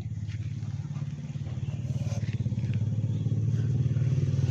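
An engine running steadily with a low, fast-pulsing note, growing gradually louder.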